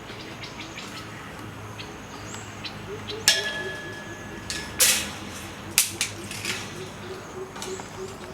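A sharp clink that rings on for about a second and a half, followed by a few separate knocks over a low steady hum.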